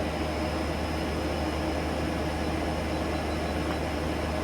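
Okuma Genos L300E-MY CNC lathe's spindle running steadily at 500 RPM: an even low hum with a faint, thin high whine over it.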